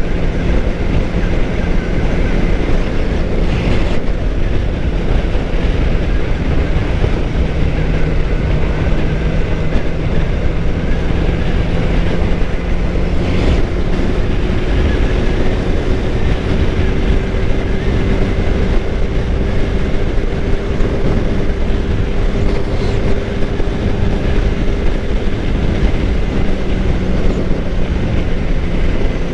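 Suzuki GSX-R600 inline-four engine running at a steady cruise, its tone holding nearly even pitch, under constant wind and road rush on a helmet microphone.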